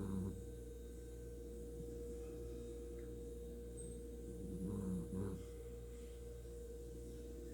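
A female dog snoring: one snore fading out at the start and another about five seconds in, over a steady hum. The owner is unsure whether it is plain snoring or a sign of illness.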